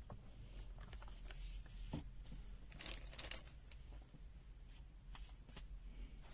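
Faint handling noise from hands working with the test leads and parts: a few light clicks and rustles, with a longer rustle about three seconds in.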